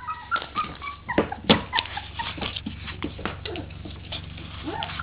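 Three-week-old Portuguese Water Dog puppies whimpering in short, high, piteous cries, mostly in the first second and again near the end, with scattered sharp taps and knocks in between.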